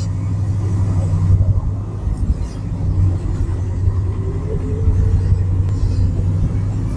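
International Harvester engine running with a steady low rumble, warmed up after its cold start, with a faint tone rising a little about four seconds in.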